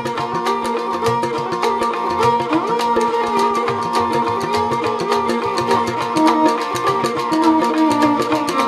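Rajasthani folk instrumental: a kamaicha plays a gliding melody over a steady drone note while a morchang (jaw harp) keeps a fast, even twanging beat.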